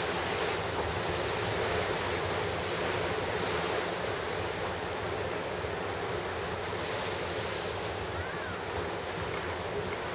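Pacific Ocean surf breaking and washing ashore, heard as a steady, continuous rush of water without distinct single crashes.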